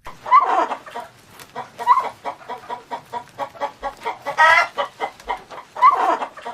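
Chickens clucking: a quick run of short clucks broken by four louder, drawn-out calls.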